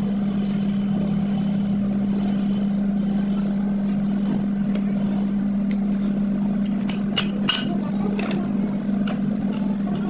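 A steady low mechanical hum, with a quick run of sharp clicks about seven seconds in.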